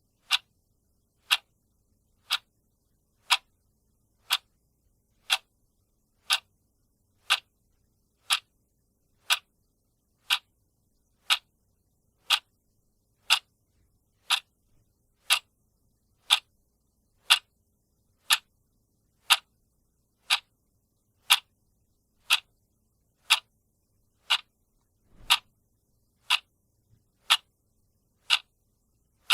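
Mechanical clock ticking steadily once a second, each tick a short, sharp click.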